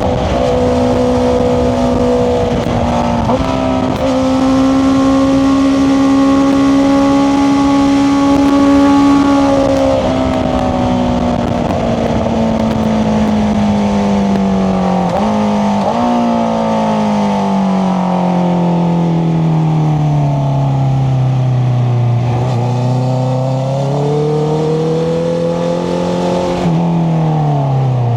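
Honda CBR650R's inline-four engine through an Akrapovic exhaust, heard on the move: it holds a steady engine speed for about ten seconds, then slowly winds down, briefly picks up again and drops once more near the end, with a couple of quick jumps in pitch along the way.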